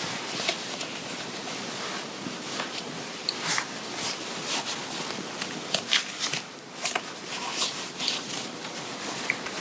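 Clothing fabric being handled and adjusted by hand: irregular short rustles and clicks over a steady hiss.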